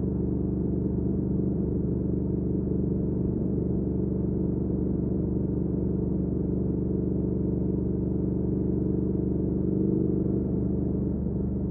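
2019 Triumph Speed Twin's 1200 cc parallel-twin engine through a Weslake Shorty Pro exhaust, running at steady, unchanging revs.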